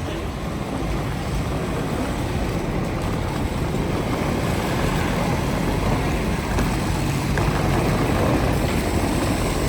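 Steady vehicle rumble and road noise, slowly growing louder.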